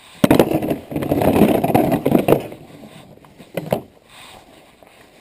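Skateboard wheels on hard ground: a rough, gritty rumble lasting about two seconds, then a couple of sharp knocks.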